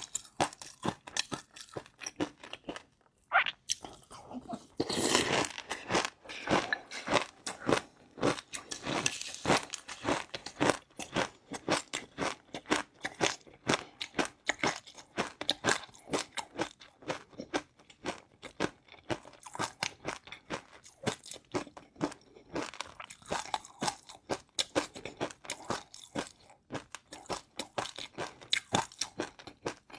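Close-up chewing of crunchy food: rapid, crisp crunches, bite after bite, with busier stretches of crunching about five, nine and twenty-three seconds in.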